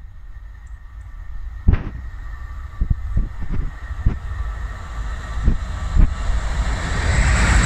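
A train approaching along the line, its running noise growing steadily louder, with a series of irregular sharp clunks from the wheels passing over rail joints.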